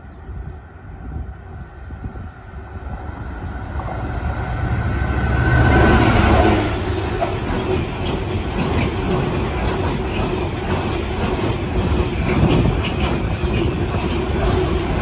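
Freight train running through a station: its noise builds as it approaches and is loudest about six seconds in as the front passes. Then a long rake of bogie hopper wagons rolls by with steady rail noise and repeated wheel clicks.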